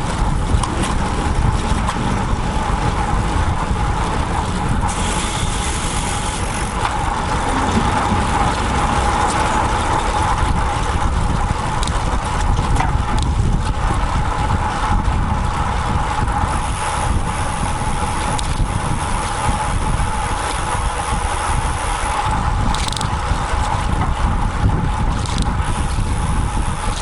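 Wind buffeting the microphone of a bicycle-mounted action camera while riding a road bike, a steady low rumble with a steady mid-pitched hum over it.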